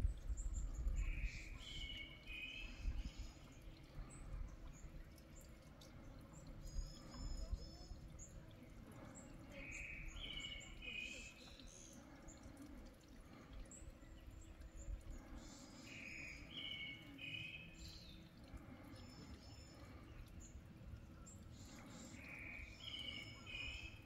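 Birdsong: a single bird repeats a short two-part phrase about every six to seven seconds, with fainter, higher calls in between. Low wind noise runs underneath and is strongest near the start.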